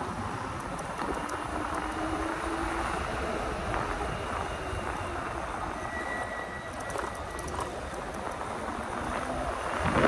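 Steady road and wind noise while riding an e-bike on 20x4 fat tires.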